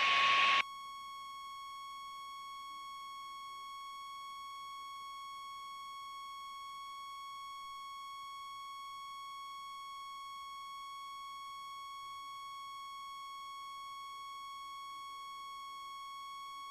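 A steady, high-pitched electronic tone with a ladder of overtones, unchanging in pitch and level throughout.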